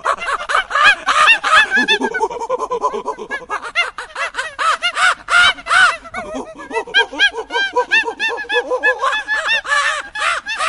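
A flock of birds calling: many short, harsh calls overlapping in a steady clamour.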